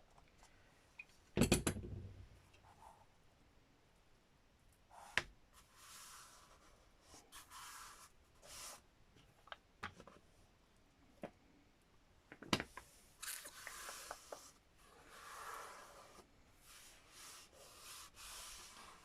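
Hand-handling noises of crafting with a book cover: intermittent rubbing and rustling of paper and card, with a few sharp knocks on the table, the loudest about a second and a half in.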